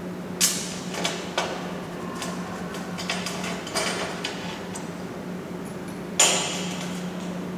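Sharp metallic clanks and knocks, about half a dozen at irregular intervals, the loudest near the start and about six seconds in, over a steady low hum.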